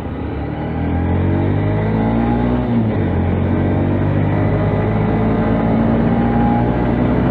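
Motorised bicycle's motor pulling hard, its pitch rising for nearly three seconds, dropping sharply, then climbing slowly again. A steady rush of wind noise on the helmet microphone runs underneath.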